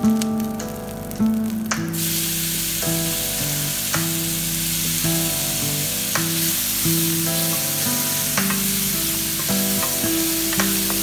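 Tomato wedges frying in hot oil in a pan, a steady sizzle that starts suddenly about two seconds in and is stirred as it cooks.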